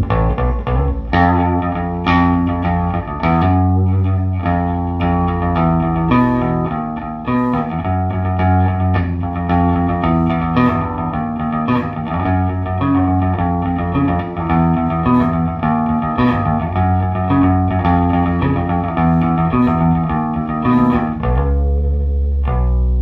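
1974 Fender Precision Bass played through a 1973 Fender Quad Reverb valve combo with four 12-inch Weber Legacy speakers. The tone is set at bass 4, middle 5 and treble 8, and the bass plays a continuous run of plucked notes.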